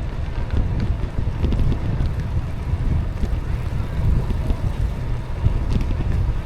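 Wind buffeting the microphone of a rider moving on an e-bike: a steady low rumble with a few faint ticks.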